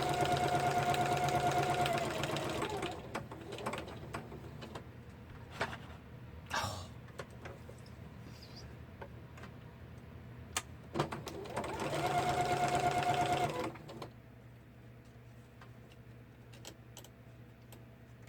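Electric sewing machine stitching in two runs of two to three seconds each, one at the start and another about twelve seconds in, with scattered clicks and knocks between them.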